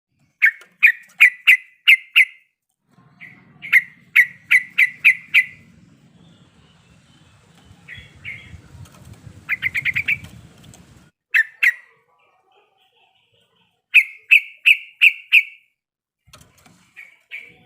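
Yellow-vented bulbul (trucuk) calling in bursts of five or six sharp, clipped notes in quick succession, with quieter scattered notes between the bursts. A faint low rumble runs under the calls from about three seconds in until about eleven seconds.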